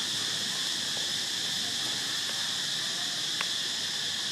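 Steady high-pitched drone of insects, with a single sharp click about three and a half seconds in.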